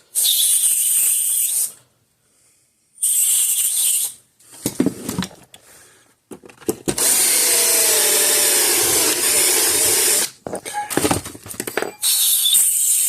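Power drill running in four short bursts, drilling out the head of a stuck security Torx screw with a metal bit; the third burst is the longest, about three seconds.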